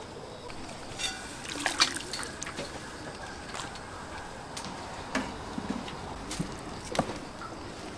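Kitchen work at a food stall: scattered clinks and knocks of utensils and dishes, a quick rattle about a second in, and liquid sloshing.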